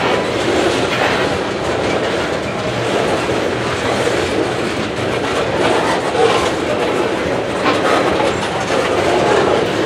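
Slow CSX mixed freight train's tank cars and covered hopper rolling past: loud, steady wheel-on-rail noise with the clickety-clack of wheels over rail joints.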